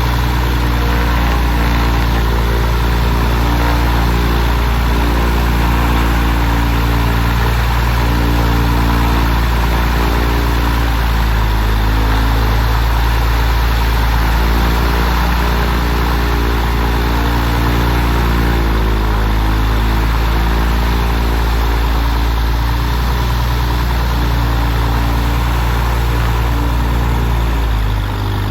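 Propeller-driven aircraft engine running steadily on the ground during its first run since being installed in the airframe. The sound eases slightly near the end.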